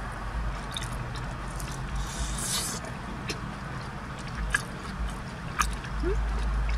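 Close-up eating sounds: chewing and wet mouth clicks from people eating a cheeseburger and sauce-glazed chicken strips, with a brief rustle about a third of the way in, over a steady low hum.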